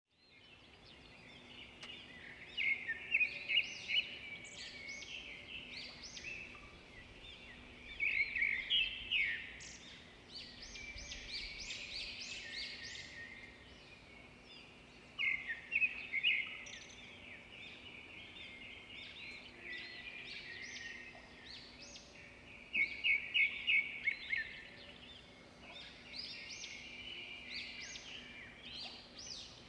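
Birds chirping: many short high-pitched chirps throughout, with louder runs of rapid notes every several seconds.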